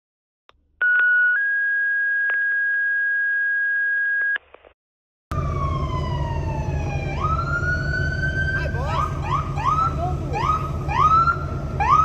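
A two-tone alert: a short steady tone, then a longer, slightly higher one lasting about three seconds. After a short silence, a fire engine's electronic siren wails down and up, then switches to a fast sweep about twice a second, over a heavy low rumble.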